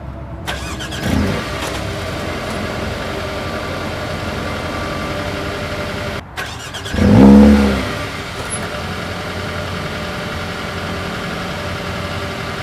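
Mercedes-AMG A35's turbocharged 2.0-litre four-cylinder engine and exhaust idling steadily, with one brief loud flare of revs about seven seconds in that rises and falls in pitch before settling back to idle.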